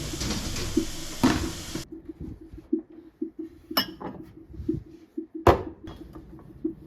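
Dishes and cutlery clinking and knocking, with a few sharp clinks, the loudest near the middle.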